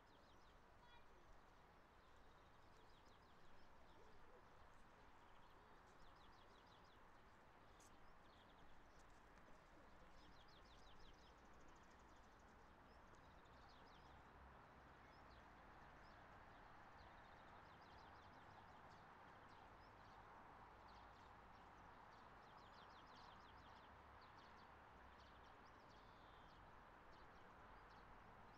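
Faint small songbirds chirping and trilling again and again over a steady, faint background noise.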